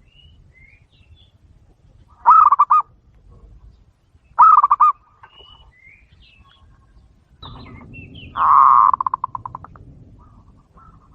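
Zebra dove cooing: two short pulsed coos about two seconds apart, then a longer one about eight seconds in that ends in a rapid run of fading pulses. Faint higher chirps in between.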